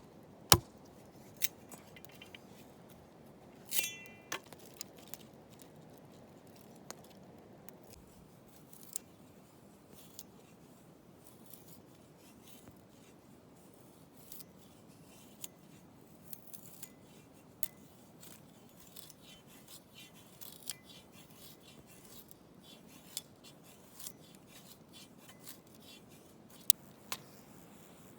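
Scattered small clicks and taps of objects being handled, with a metallic clink that rings briefly about four seconds in.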